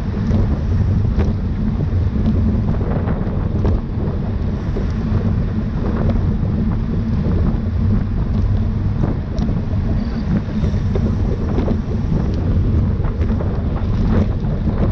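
Wind rushing over the microphone of a camera on a racing bicycle at speed: a loud, steady low rumble, with a few faint clicks scattered through it.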